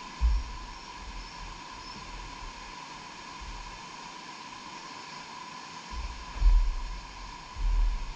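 Steady outdoor hiss with gusts of wind buffeting the microphone in low rumbles, once right at the start and twice near the end, the one about six and a half seconds in the loudest.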